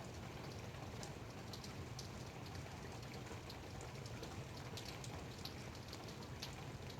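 Light rain falling, an even patter with many separate drops ticking irregularly over a steady low rumble.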